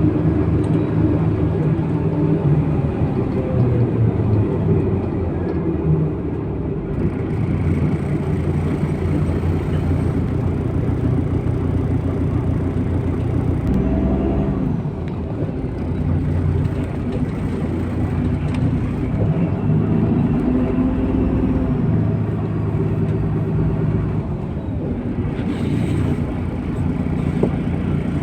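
MAZ-103 city bus driving, heard from inside: its diesel engine runs under road rumble, the engine note rising and falling several times as the bus changes speed, with a clear change about halfway through.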